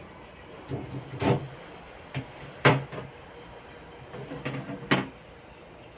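Several sharp knocks and clunks of household items being handled and set down, as during fridge cleaning: a cluster about a second in, two more near the three-second mark, and a pair near the end.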